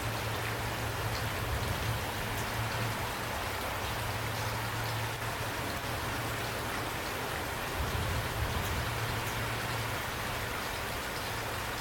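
Steady rain falling, with scattered drops ticking close by over an even hiss and a low steady hum underneath.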